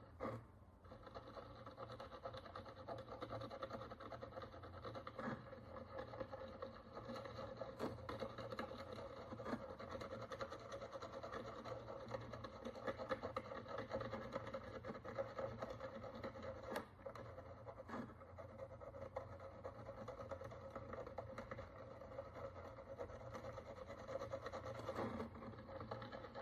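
Faint, steady scratching and scraping of a tool working the dirt and oxidation crust off a Roman bronze coin, with a few sharp clicks along the way.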